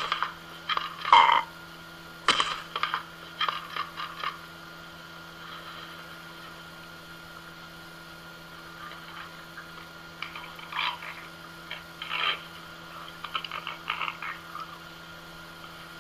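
An animal's short, sharp calls, some single and some in quick clusters, over a steady hum. The calls come mostly in the first few seconds and again in the second half.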